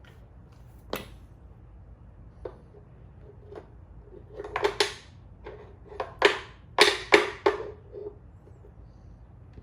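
Knocks and clatters of toy pieces being handled: a single knock about a second in, then a busy run of louder clacks and scrapes in the middle.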